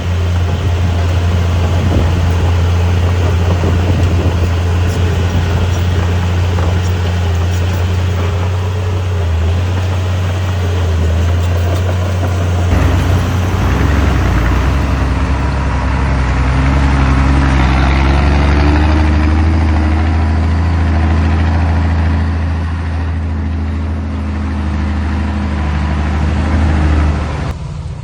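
Heavy diesel engine of earthmoving machinery running steadily with a deep low hum; its note shifts about halfway through, and the sound drops away just before the end.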